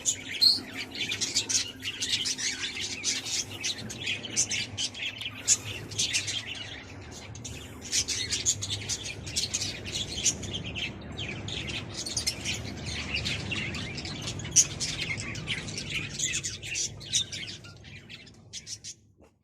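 A colony of budgerigars and cockatiels chattering together: a dense, unbroken stream of rapid chirps and warbles with occasional squawks, fading out near the end.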